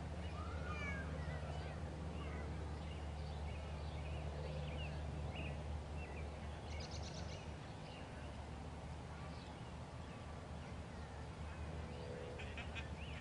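Small birds chirping on and off in short, quick calls, with a brief rapid rattle about seven seconds in, over a steady low outdoor rumble.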